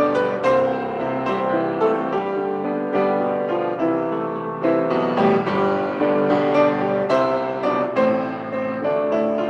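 Piano playing, a gentle piece of struck notes and held chords.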